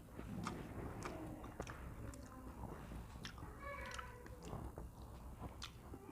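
A person chewing food, with many small irregular clicks and smacks of eating.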